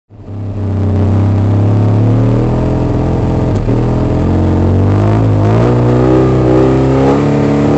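Fiat 126p's 650 cc air-cooled two-cylinder engine running at a steady pitch from inside the cabin, fading in over the first second, while the car stands on the start line waiting for the launch.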